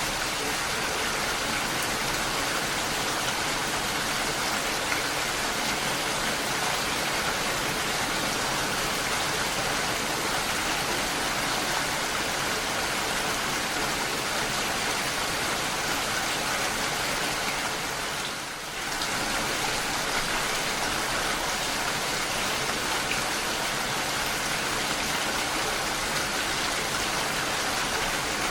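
Steady rain falling, a dense even hiss of drops. The level briefly dips and recovers about eighteen seconds in.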